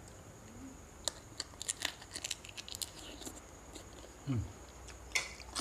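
Shrimp shells cracking and tearing by hand: a quick run of small sharp cracks, then a brief low grunt and one more crack near the end.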